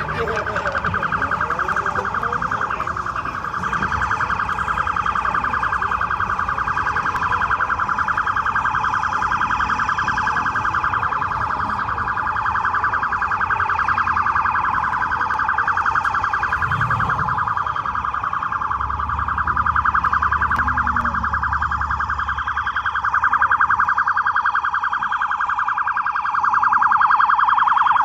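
A car alarm sounding a steady, fast-pulsing high warble that keeps going without a break. Midway through, a car engine rumbles low for a few seconds.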